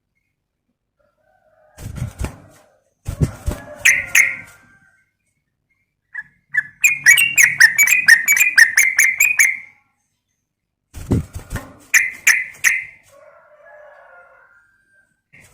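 Yellow-vented bulbul (trucukan) calling: several bursts of rapid, chattering notes, the longest lasting about three seconds in the middle, separated by short pauses, with a fainter, lower warble near the end.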